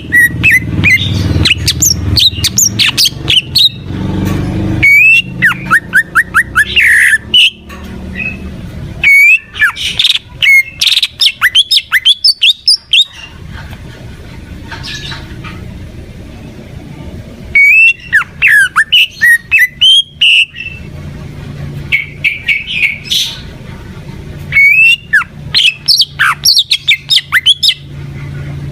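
Green leafbird (cucak ijo) singing vigorously: loud, rapid phrases of sweeping whistles and harsher squawky notes, repeated in bursts with short pauses between them, over a low background hum.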